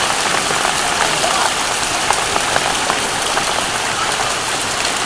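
Heavy rain pouring down: a steady, dense hiss dotted with sharp drop hits.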